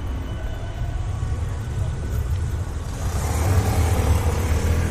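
Rainy, windy city street ambience: wind rumbling on the microphone under traffic noise, with a hiss that grows louder from about three seconds in.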